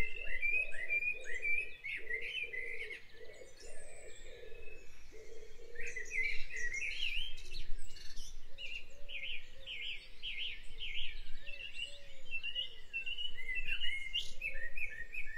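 Birds chirping and twittering in quick, repeated high-pitched calls, with a lower warbling call underneath.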